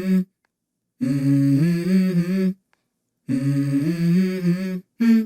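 A person humming a short two-note "mm-hmm" phrase, a low note stepping up to a higher one. The phrase comes again and again, each time about a second and a half long, and cuts off abruptly into silence between repeats.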